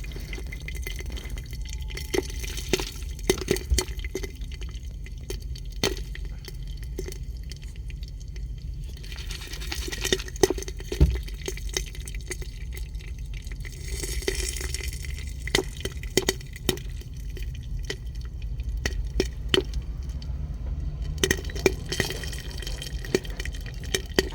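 Popcorn kernels popping in hot oil inside a Joulle electric kettle: irregular sharp pops, some in quick runs, thicker near the start and again near the end.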